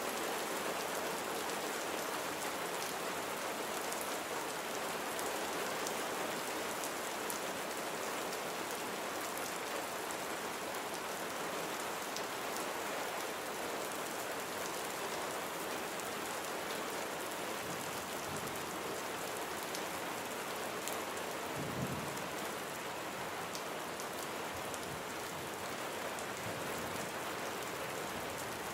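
Steady rain falling on surfaces, an even hiss with fine patter of individual drops. A brief low rumble comes about two-thirds of the way through.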